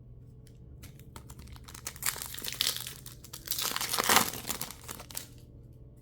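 Plastic mini booster pack wrapper crinkling and tearing as it is opened by hand, in two loud bursts about two and four seconds in, after a few light clicks of handling.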